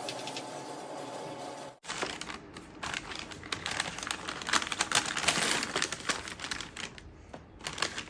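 A steady hum for nearly two seconds, then, after an abrupt cut, a dense run of irregular crinkling and clicking, like something crisp being handled.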